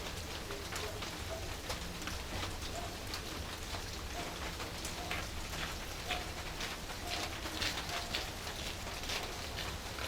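Burning firewood in a traditional wood-fired pottery kiln, crackling and popping in many quick irregular snaps over a low steady rumble.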